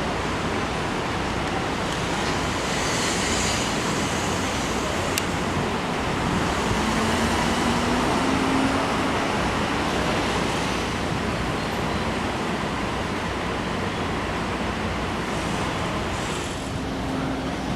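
Steady road-traffic noise, a continuous hiss and rumble with a faint hum coming in briefly around the middle and again near the end.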